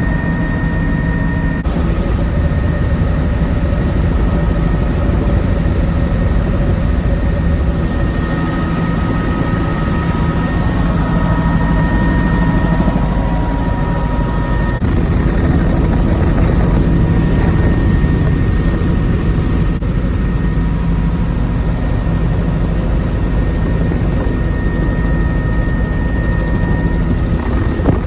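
Helicopter rotor and engine running steadily, loud and close, heard from inside the doors-off cabin with a constant rush of air, and a few steady tones held above the low drone.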